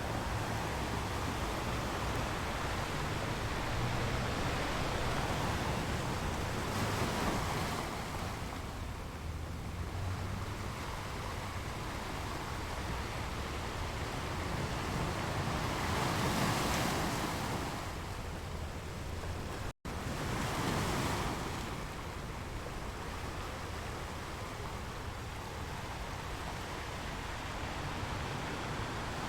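Sea surf washing in continuously, with waves swelling louder about 7 seconds in, around 16 to 17 seconds and again just after 20 seconds. A low wind rumble on the microphone sits underneath. The sound cuts out for an instant about two-thirds of the way through.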